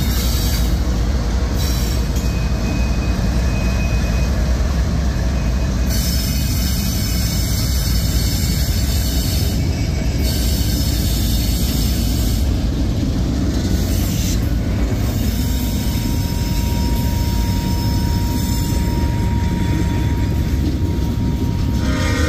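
CSX freight train passing close by: diesel locomotives go by with a steady low rumble, then freight cars and covered hoppers roll past on the rails. A thin steady wheel squeal lasts a few seconds past the middle.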